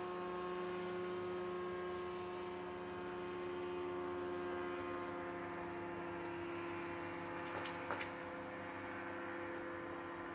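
Steady drone of a powered paraglider's engine and propeller, holding one even pitch.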